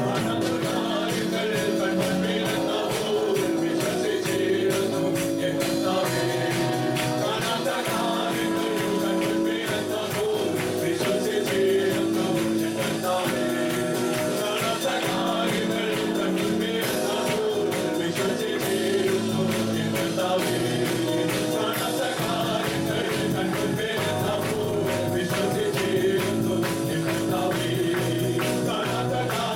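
Live praise and worship music: a band playing with singing and a steady percussive beat.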